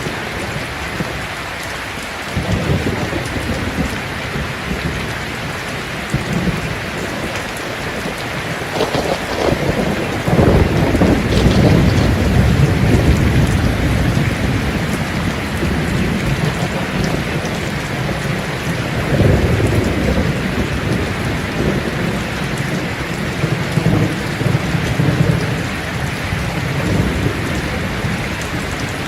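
Steady heavy rain hissing, with rolling thunder rumbling low beneath it. The rumble swells up about a third of the way in and again about two-thirds in.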